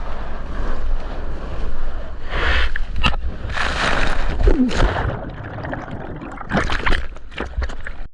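Seawater splashing and rushing around a surfer's GoPro, with wind rumbling on the microphone; louder splashes come in a few bursts.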